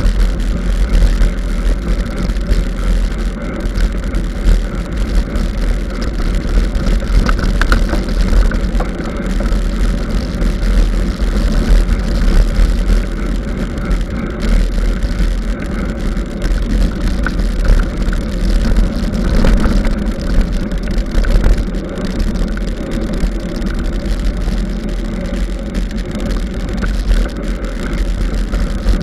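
Continuous loud rumble and rattle of a mountain bike being ridden over a forest trail, with the bumps and wind carried through the bike- or rider-mounted camera's microphone.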